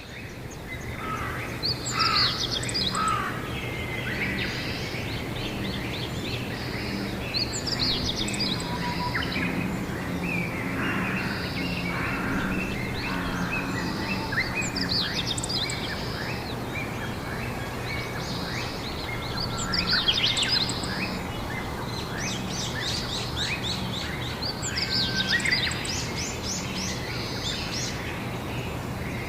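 Several songbirds singing and chirping, with a louder burst of rapid high chirps and trills about every five to six seconds, over a steady low hum.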